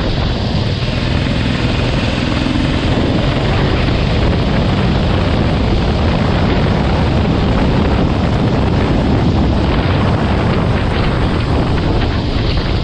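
Go-kart engine running on track, heavily masked by wind buffeting the microphone, with a faint engine pitch coming through a couple of seconds in.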